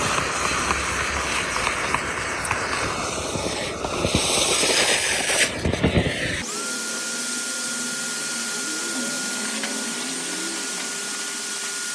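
Gutter vacuum running. For the first half it makes a rough rushing noise with knocks and a loud hiss, and after about six and a half seconds a steady, high motor whine takes over.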